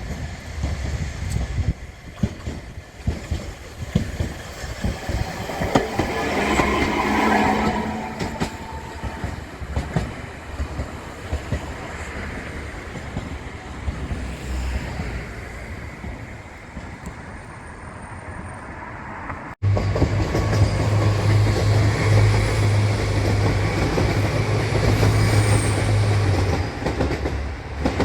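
A train passing close by, its wheels clicking over rail joints above a rumble that swells and fades. After a sudden cut about two-thirds through, a train runs louder with a steady low hum and more wheel clatter.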